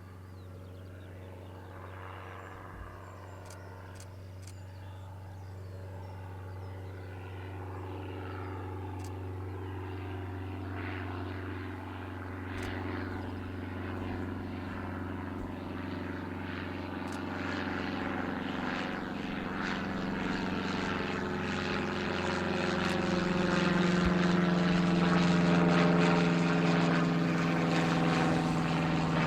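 Aircraft engines droning with a steady low hum, growing steadily louder as the plane approaches, loudest near the end as it passes close by.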